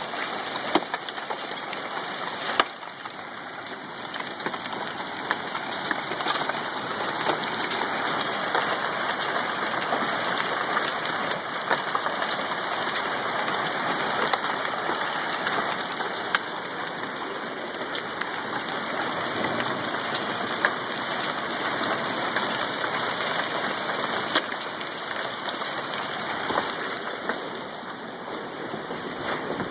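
Hailstorm with heavy rain: a dense, steady rush of falling water and ice, with many sharp clicks of hailstones striking hard surfaces.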